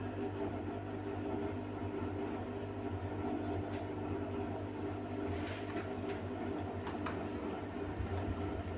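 Balay washing machine running, its motor giving a steady low hum, with a couple of faint clicks about two-thirds of the way through.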